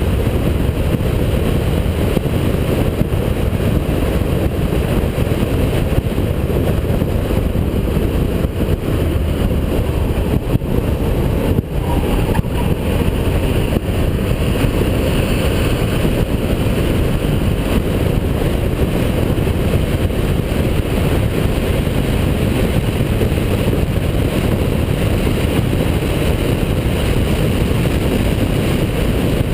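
Holden VP Commodore's V6 engine running hard, a loud steady drone with a brief break about twelve seconds in.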